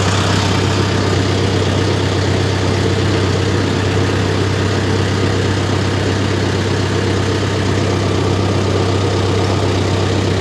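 Mahindra tractor's diesel engine running at a steady speed with a deep, even hum.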